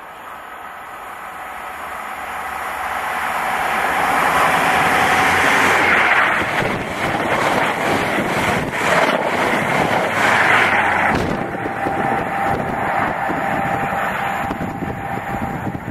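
InterCity 125 high-speed train with MTU-engined Class 43 power cars passing at speed. The engine note builds as it approaches, then comes a loud rush and rumble of the coaches for about five seconds, ending suddenly a little over eleven seconds in, after which the sound of the train running away fades.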